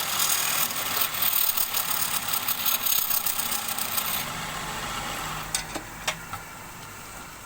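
Wood lathe running while a turning tool cuts the spinning wood with a rough scraping hiss. About four seconds in the cutting stops and the lathe motor hums on steadily, with a couple of light clicks.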